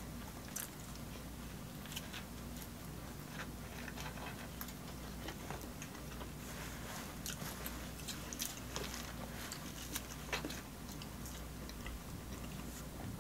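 Close-miked eating: soft chewing and biting of sandwiches and chips, with scattered small crunches and mouth clicks over a low steady hum.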